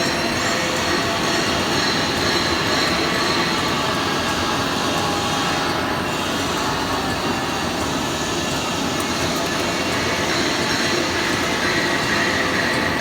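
CNC machine running, a steady mechanical noise with a held high whine above it.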